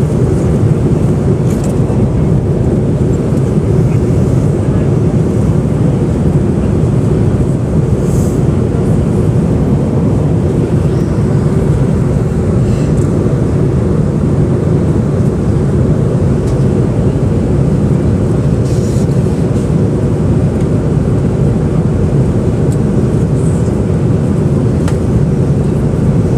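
Steady low rumble of a jet airliner's cabin at cruise: engine and airflow noise, unchanging throughout, with a few faint ticks.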